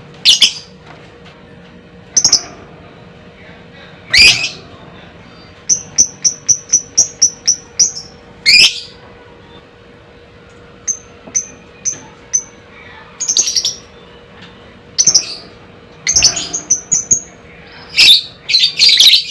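Lovebird calling: separate shrill, sharp calls, with a quick run of about ten short high chirps about six seconds in and shorter chirp runs later on.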